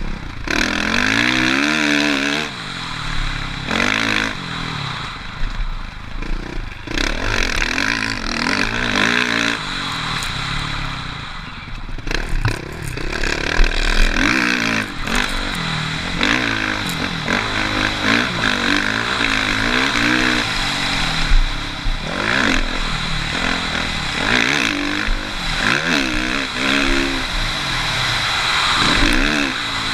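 Suzuki RM-Z450 single-cylinder four-stroke motocross bike ridden hard round a dirt track. The engine revs up and drops off over and over, every second or two, through the throttle and gear changes, with a noisy rush of wind and dirt over it.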